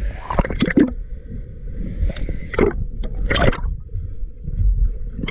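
Water splashing and gurgling right at the microphone in uneven bursts, over a low rumble of rushing water.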